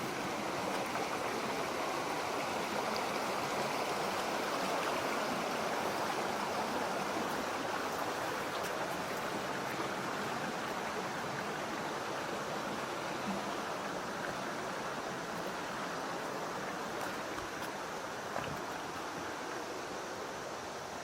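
Mountain stream rushing steadily over rocks, a little louder in the first few seconds and easing slightly later on.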